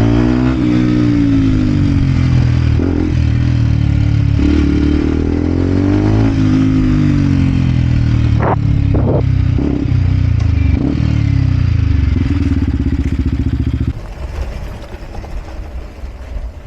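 Vent Derapage 125 four-stroke engine through a full Scalvini exhaust, its revs rising and falling twice, with a few sharp clacks around the middle. It then runs steadily for a moment and is switched off about fourteen seconds in.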